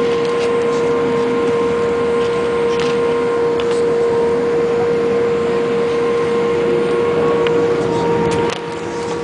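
Jet airliner's engines running steadily: an even roar with a constant hum held at one pitch. The sound drops a little about eight and a half seconds in.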